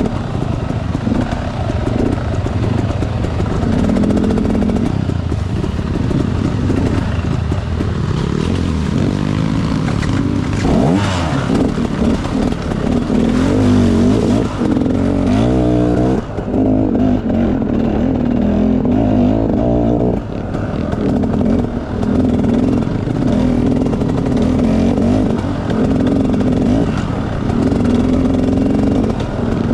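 Enduro dirt bike engine revving on a trail ride, its note rising and falling again and again as the throttle opens and closes.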